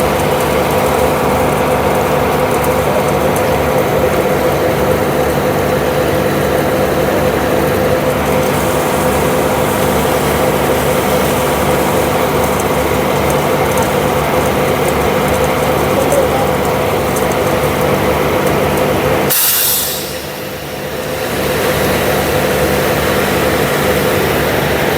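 Heavy truck engine running steadily at a concrete pour. About 19 seconds in comes a short sharp hiss of air. The engine sound then drops for a couple of seconds before coming back up.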